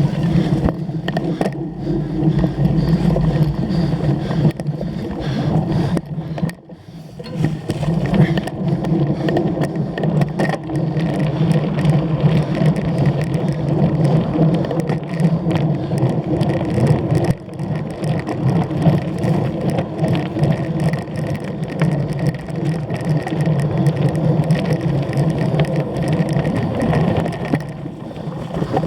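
Wind rushing over the microphone of a camera riding on a cyclocross bike, with the bike rattling and clicking over rough ground; the noise dips briefly a few seconds in.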